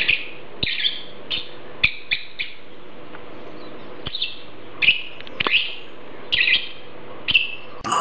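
Male eclectus parrot calling: about eleven short, high calls in an uneven series, with a pause of about a second and a half in the middle.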